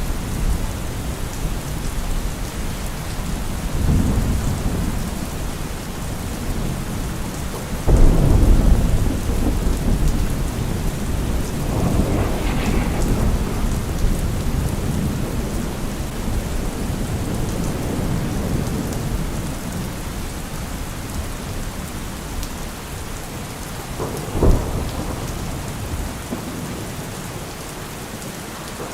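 Heavy rain falling steadily, with several deep low rumbles rolling in and fading. The strongest rumble starts suddenly about eight seconds in, and a shorter one comes near the end.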